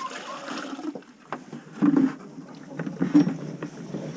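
Water sloshing in a bucket as it is handled and emptied, with irregular knocks and clunks.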